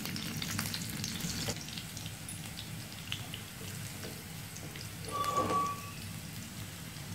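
Pounded garlic sizzling and crackling in hot oil in a wok as it is stirred with a wooden spatula, with a short, louder squeak about five seconds in.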